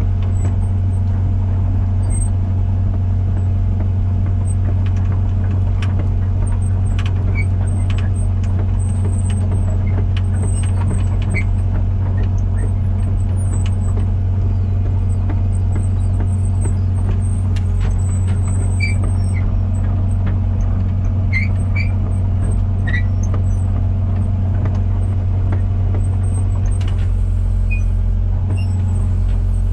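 Komatsu PC120-6 excavator's diesel engine running steadily, with scattered small clicks and short squeaks from the machine over it.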